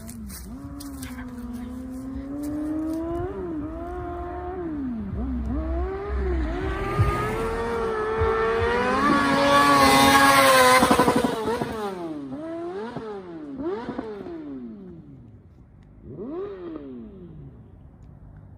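2010 Yamaha R6 inline-four sport bike accelerating hard through the gears. The engine note climbs and drops at each upshift. It grows loudest about ten seconds in as it passes, then fades away through a few more shifts.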